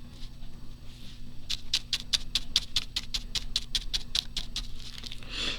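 A quick, even run of light taps, about six a second for some three seconds, from hand crafting work on the journal page at the table, with a faint steady mains hum.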